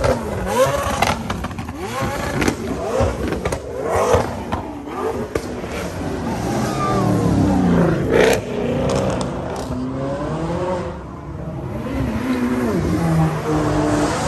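High-performance car engines revving and accelerating away one after another, a McLaren 720S among them, the engine pitch climbing and dropping with each burst of throttle. A sharp crack cuts through about eight seconds in.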